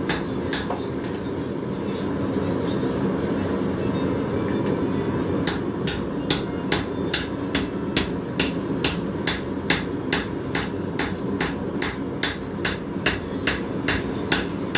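Blacksmith's hammer striking steel on an anvil, forging by hand: a few blows at the start, a pause of several seconds, then a steady rhythm of about two to three strikes a second, over a steady low background rumble.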